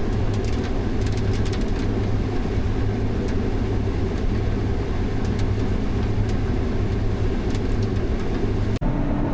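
Heavy diesel farm machinery engine running steadily with a constant low drone and faint ticking on top. Near the end the sound breaks off abruptly and a different steady engine drone takes over.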